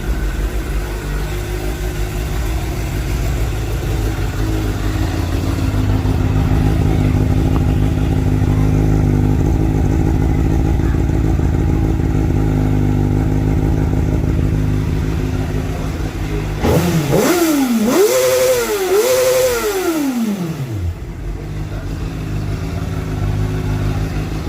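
Honda CBR600RR's inline-four engine idling steadily, then blipped twice in quick succession about two-thirds of the way in, the revs rising and falling back to idle each time.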